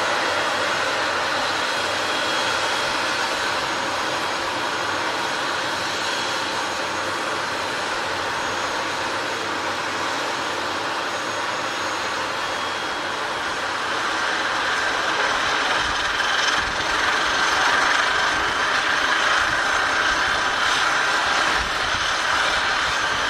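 Aircraft engines running, a steady whine over a broad hiss. The sound grows a little louder, with some low rumbling, in the last third.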